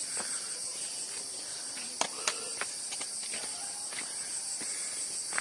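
Insects trilling steadily in a high, shrill chorus, with a few sharp clicks about two seconds in.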